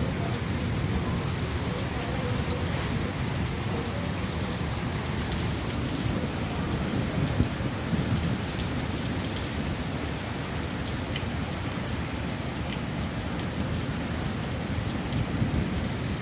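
Steady rain falling, with the patter of drops hitting surfaces.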